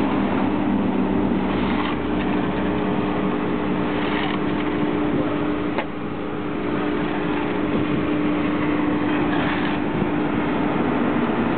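Slurry seal machine running steadily, a constant engine hum over a noisy machine rumble.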